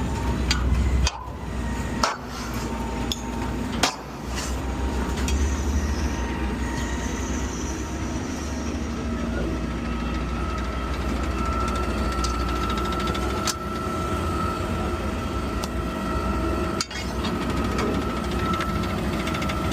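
Garbage truck running with a steady low rumble and, from about halfway, a high steady whine. Several sharp metal knocks and clanks in the first four seconds and one more near the end come from the truck's clean-out.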